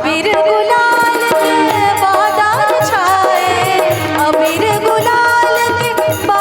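Indian folk Holi music, a Braj rasiya, played by a live band: hand-drum strokes in a steady rhythm under a gliding melody line.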